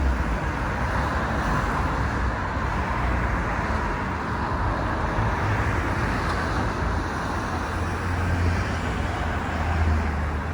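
Yamaha R6 inline-four engine idling steadily through an Akrapovič Evo GP exhaust with the baffle in.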